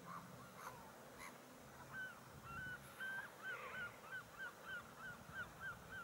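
A bird calling: a few faint calls, then from about two seconds in a regular run of about a dozen short, clear notes, each dipping slightly in pitch at its end, about three a second.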